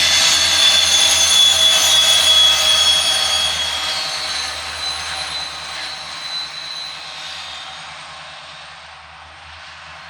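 A train running past and fading away, its wheels giving a high, steady, ringing squeal over a low rumble. The sound dies away gradually.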